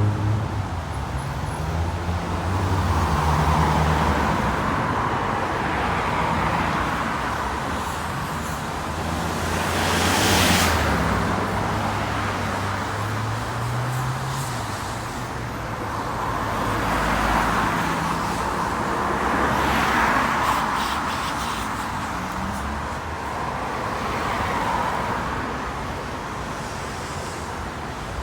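Road traffic passing: vehicles go by one after another, their engine and tyre noise swelling and fading every few seconds, the loudest pass about ten seconds in. A deep engine hum runs under the first ten seconds or so.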